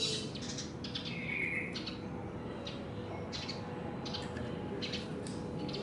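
Small birds chirping: a string of short, high chirps every half second or so, with one slightly longer note about a second and a half in. A faint steady hum runs beneath.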